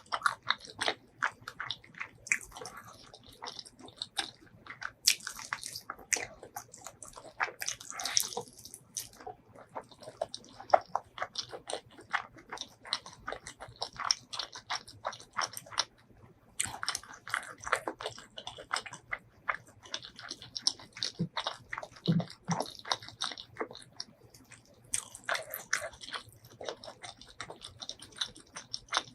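Close-miked eating sounds: a person biting and chewing food, with many short wet mouth clicks and smacks and occasional crunchy bites.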